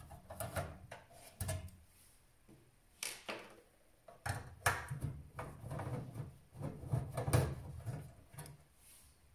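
Irregular clicks, knocks and low thuds of hands and tools working inside a metal desktop PC case, freeing the old SATA hard drive from its bay.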